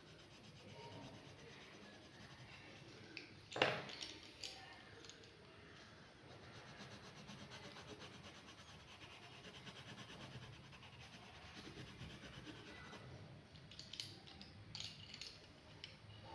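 Pen drawing on paper, a faint steady scratching and rubbing, with one sharp tap of the pen about three and a half seconds in and a few light clicks near the end.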